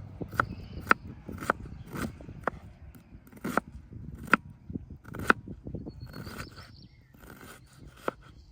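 Hand food-preparation sounds: a series of sharp, irregular knocks and clicks, then, from about six seconds in, a run of short scraping strokes about two a second.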